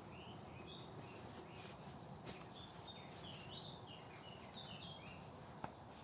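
Faint songbird song: a string of short chirping, rising and falling phrases over a steady background hiss, with a single sharp click near the end.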